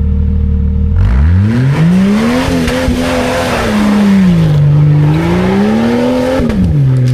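Off-road 4x4's engine revving hard under load as it drives at a climb again. It idles, then about a second in the revs rise sharply and stay high, dip and climb again, and drop back near the end.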